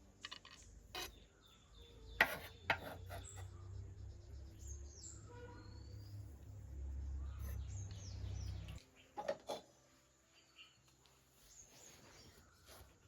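Scattered clinks and knocks of kitchen utensils, with a few short bird chirps. A low rumble runs underneath and stops abruptly near the end.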